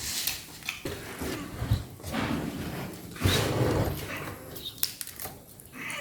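Close-up eating sounds of roast chicken: chewing, with wet lip smacks and clicks coming irregularly.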